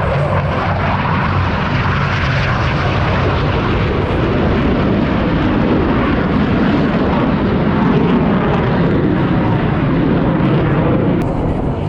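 Blue Angels F/A-18 jets' engines, a loud steady rushing roar as the jets fly by, swelling to its loudest about eight seconds in and easing off near the end.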